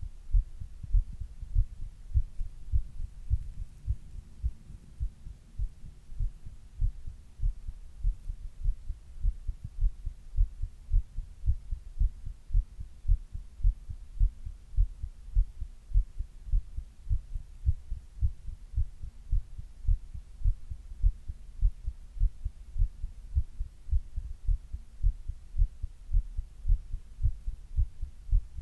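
A person's heartbeat heard close up at the chest, a steady lub-dub rhythm of paired low thumps. It was recorded while she had a 102-degree fever.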